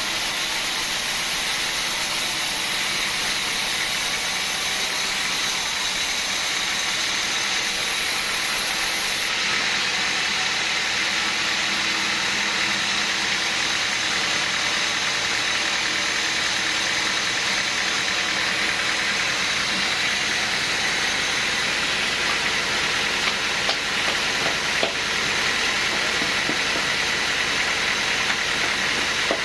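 Sawmill machinery running steadily, a continuous engine noise with a hiss. There are a few small knocks about twenty-three to twenty-five seconds in.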